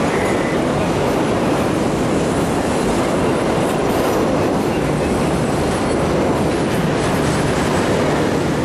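Diesel-hauled passenger train passing close by, the locomotive and coaches making a steady, loud rolling rumble of wheels on rails.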